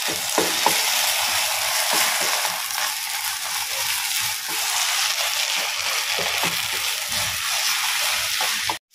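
Chopped okra sizzling in a non-stick pan with a little curd stirred in, a wooden spatula scraping and turning it; the curd keeps the okra from going stringy and slimy. The sizzle stops suddenly near the end.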